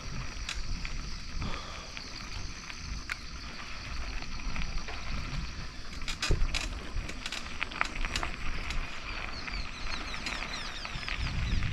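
Bicycle riding along a forest track: a low rumble of tyres and wind on the microphone with scattered clicks and rattles, over a steady high insect buzz. A run of quick bird chirps comes near the end.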